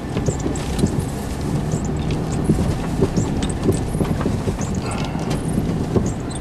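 Car driving through deep snow, heard inside the cabin: a steady low rumble of engine and tyres with irregular knocks and thumps from the car going over snow.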